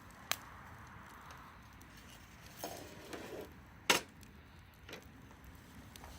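Wood fire burning, with a few sharp pops from the burning wood; the loudest comes about four seconds in, just after a brief softer crackle.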